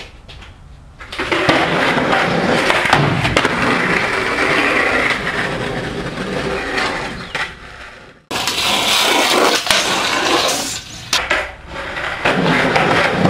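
Skateboard wheels rolling on pavement with a steady grinding rush, broken by a few sharp clacks of the board. The sound cuts off abruptly about eight seconds in and picks up again at once.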